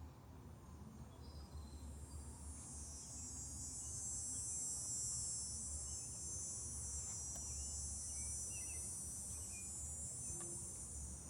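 An insect buzzing: a high, steady shrill that swells in about two seconds in and then holds without a break, over a faint low outdoor rumble.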